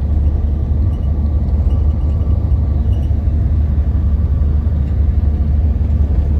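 Steady low rumble of a moving passenger train heard inside the upper level of a bilevel coach, with a faint steady whine and a few light ticks.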